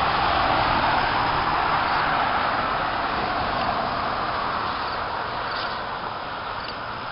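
Highway traffic going by: tyre and engine noise of passing vehicles, loudest at the start and slowly fading over several seconds.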